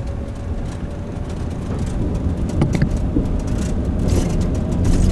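Camper van driving, its engine and road noise heard from inside the cabin as a steady low rumble that grows a little louder, with a few light knocks.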